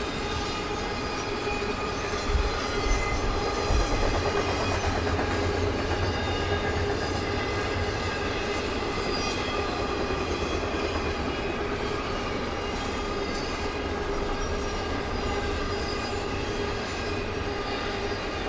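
Railroad cars rolling past steadily, wheels clattering over the rail joints, with a few steady ringing tones over the rumble and some low thumps a few seconds in.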